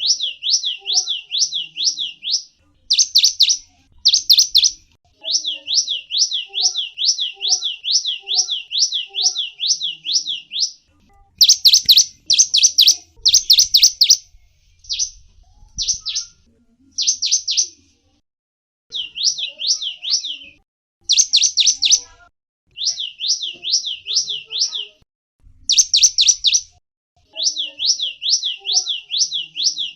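Gelatik wingko songbird singing: runs of high, quick sliding chirps, about four a second, in bursts of one to five seconds separated by short pauses.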